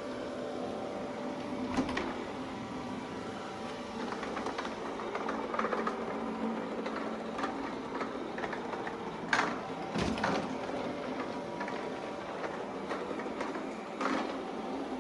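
Shark ION robot vacuum running, with a steady whirring hum from its motors. Several sharp knocks and clicks come through it, the loudest about two-thirds of the way in.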